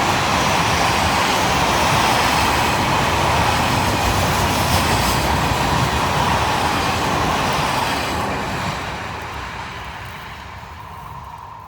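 Electric train passing close by, a steady loud rumble of wheels on the rails that fades as it moves away over the last few seconds.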